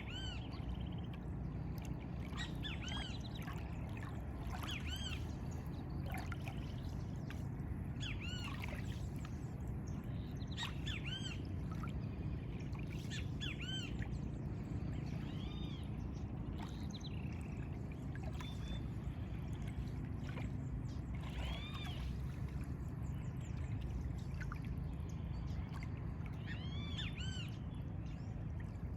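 Birds singing in short, repeated arching chirps, scattered throughout, over a steady low rumble of lagoon-side ambience.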